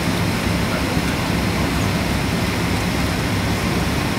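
Steady cabin drone of a Boeing 737-400 in flight: the engines and airflow as heard inside the passenger cabin, an even rushing noise with a low hum underneath.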